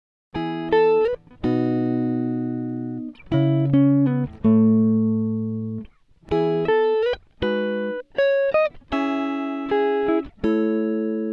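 Background music: a plucked guitar playing a slow phrase of chords and single notes, each struck sharply and left to ring and fade, some with small pitch slides.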